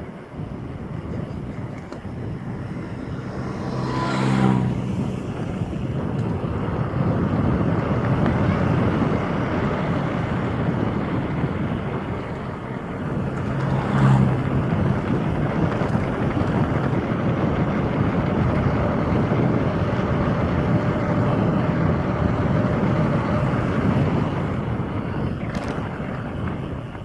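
Steady wind rush and rumble over the microphone of a camera riding along on a mountain bike on a trail. There are two brief louder, pitched sounds about four and fourteen seconds in.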